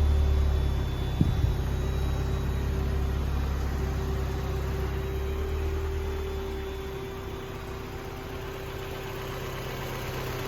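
1991 Mazda Miata's 1.6-litre four-cylinder engine idling steadily, getting quieter past the middle and picking up slightly near the end. A steady hum comes in alongside it, and there is a single click about a second in.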